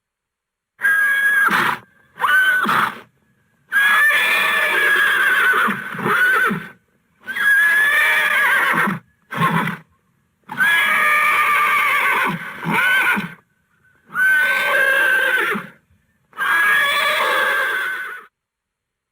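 Horse whinnying: a series of about eight separate whinnies, each a shrill, wavering call lasting from half a second to about three seconds, with dead silence between them.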